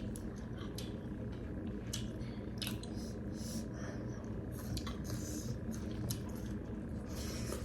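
Close-up eating sounds from a rice-and-curry meal: wet chewing and smacking, with scattered short clicks, over a steady low hum.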